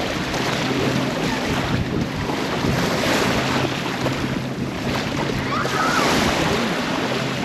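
Strong wind blowing across the microphone over the wash of small waves on the shore.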